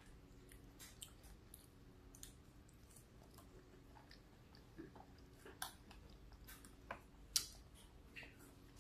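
Faint close-up mouth sounds of chewing a cheeseburger: scattered soft wet clicks and smacks, with a sharper click about seven seconds in.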